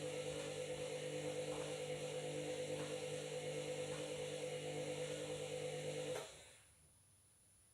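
Washing machine running with a steady motor hum that cuts off suddenly about six seconds in, followed by near silence.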